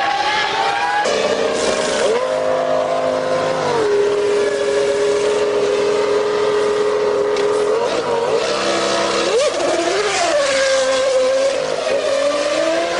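1999 Formula One V10 engine in the pit lane, held at a steady buzzing pitch for several seconds, then revving up and down, with a few brief sharp noises over it.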